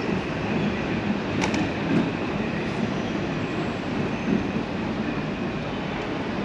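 Docklands Light Railway train running: a steady rail rumble with a faint hiss above it and one brief click about a second and a half in.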